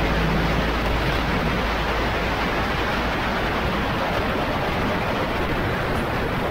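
Steady wind rush on the microphone of a moving motorcycle: an even, unbroken roar of noise.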